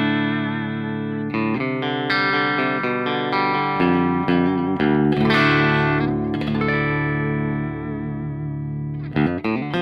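Clean electric guitar playing a series of ringing chords, a new one struck every second or so. It runs through a Synergy SYN-30 amp's clean channel with the bright and mid switches on, and the delay and reverb pedal is bypassed, so the tone is dry.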